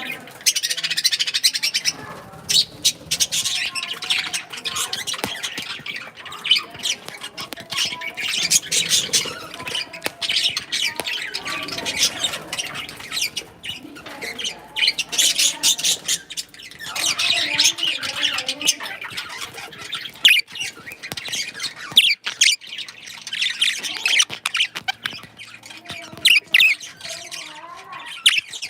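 Pet cockatiels and budgies calling together: a dense, continuous run of short, high calls from several birds at once, with a few brief lulls.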